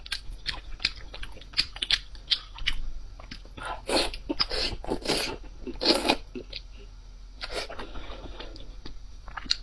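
Close-miked chewing and crunching of crisp food: quick sharp crunches at first, then louder, longer bursts of crunching about halfway through and again near the end.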